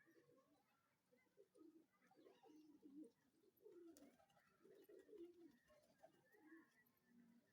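Domestic pigeons cooing faintly: a string of low, wavering coos, one after another.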